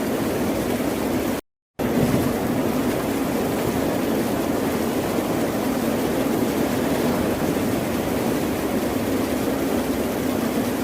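Ocean surf, a steady wash of noise, cut by a brief gap of complete silence about a second and a half in.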